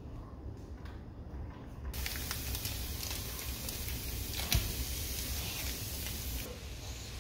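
Chopped onion and garlic sizzling in hot oil in a frying pan. The hiss comes in suddenly about two seconds in and drops back near the end, with one sharp click about halfway.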